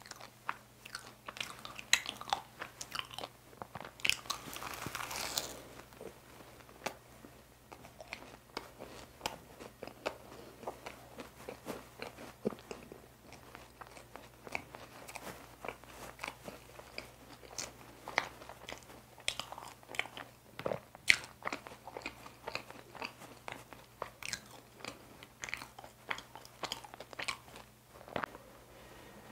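Close-miked eating: chewing and biting pastry, a tiramisu pie, with many short sharp mouth clicks and smacks. There is a brief rustle about four to five seconds in.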